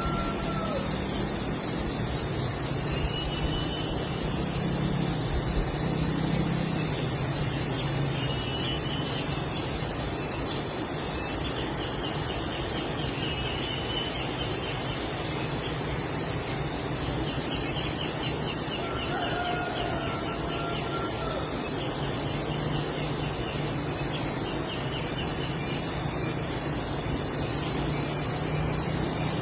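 Steady, high-pitched insect chorus, with faint short bird chirps and trills now and then.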